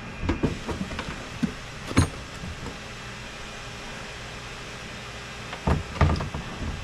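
Tools and parts knocking and clicking while a personal watercraft's engine and electrical box are being unbolted: scattered light knocks, one sharp clank about two seconds in and a few louder knocks near the end, over a steady low hum.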